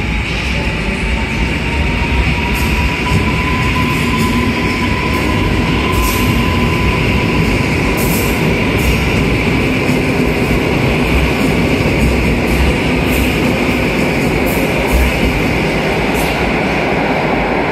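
Electric multiple unit train pulling out of an underground station: a steady rumble with a thin whine that rises in pitch over the first few seconds as it picks up speed, and a scatter of sharp clicks as the carriages pass.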